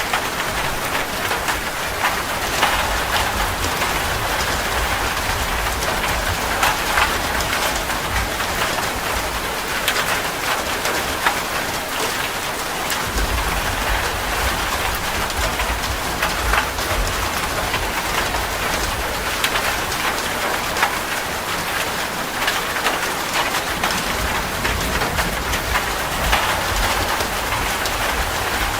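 Steady rain falling on a hard surface, a dense even hiss full of individual drop hits, with a low rumble swelling briefly about halfway through.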